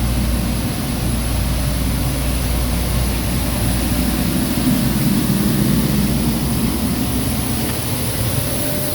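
Jet aircraft noise around an airliner: a steady low rumble with a constant high-pitched whine above it.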